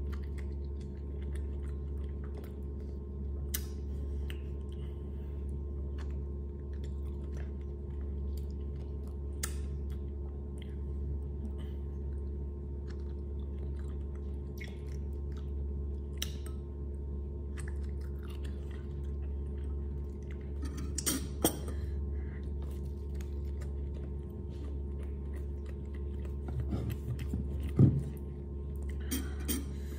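A person chewing and biting food close to the microphone: wet mouth clicks and smacks scattered irregularly over a steady low hum, with a few louder clicks about two-thirds of the way in and near the end.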